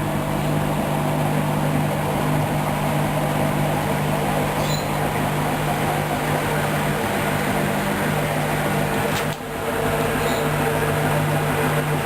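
Hoover DYN 10124 DP front-loading washing machine on its intermediate spin, the drum and motor running with a steady hum and rumble. There is a brief dip about nine seconds in.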